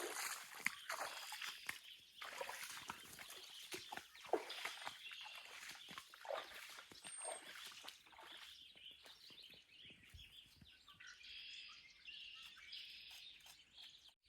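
Footsteps in wet snow, irregular steps that thin out about halfway through, with small birds chirping in the background.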